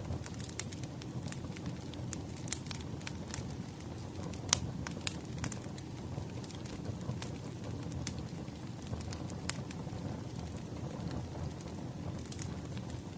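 Wood fire crackling: a steady low rumble with irregular sharp pops and snaps. The loudest pop comes about four and a half seconds in.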